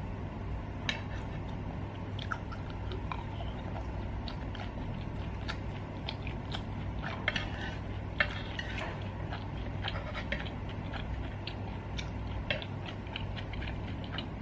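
Close-miked chewing and mouth sounds of someone eating cumin-roasted lamb, with many small scattered clicks as wooden chopsticks and a wooden spoon pick at the meat in a pan. A steady low hum runs underneath.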